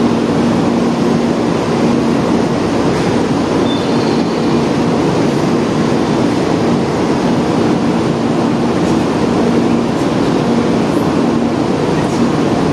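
A shinkansen standing at the platform with its equipment running: an even rushing drone with a steady hum underneath, no change in pitch or level.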